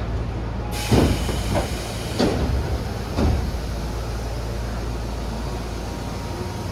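Tobu 10000 series commuter train running, a steady low rumble heard from on board. A sudden rise in hiss comes just before three heavy knocks, about a second apart, in the first half.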